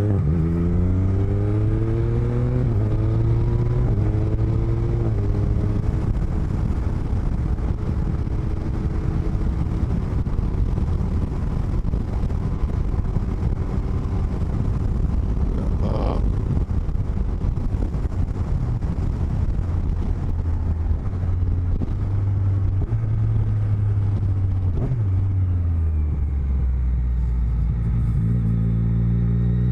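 Motorcycle engine heard from the rider's helmet microphones while riding. In the first few seconds its pitch climbs in steps through the gears, then a steady low rush of wind and road noise mostly covers it. The engine note comes back clearly in the last few seconds.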